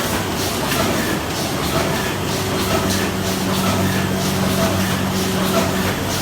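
KOLBUS post-press machinery (case maker or board-grooving machine) running steadily: a constant motor hum under a regular, repeating mechanical clatter.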